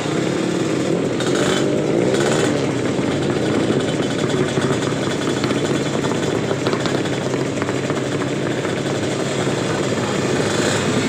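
Drag-racing motorcycle engines running loudly and continuously, with the pitch wavering up and down briefly about two seconds in.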